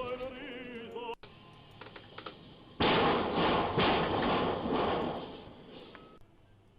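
A truck's roof striking a low steel railway bridge: a sudden loud crash about three seconds in, with a few more bangs, dying away over the next two to three seconds.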